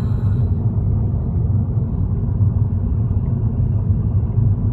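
Steady low rumble of a car travelling along the road, heard from inside the moving car: engine and tyre noise with no change in pace.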